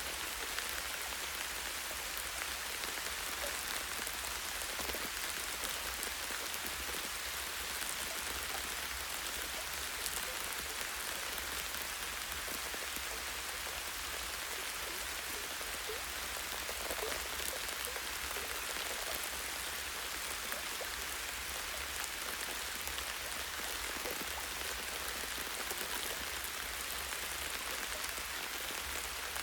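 Light rain falling steadily on tree leaves and branches: an even patter of many small drops, with single drop ticks here and there.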